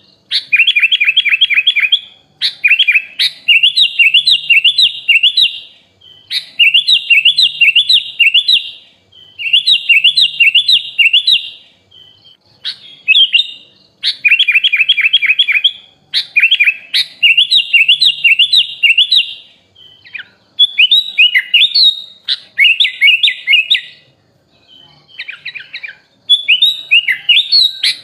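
A kutilang (sooty-headed bulbul) singing a song filled with phrases taken from other birds. It comes in bursts of rapid, repeated chirping notes, each burst about two seconds long, with short pauses between.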